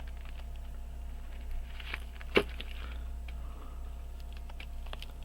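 Small scattered clicks of hand tools on a pocket watch movement, with one sharp click about two and a half seconds in, over a steady low hum.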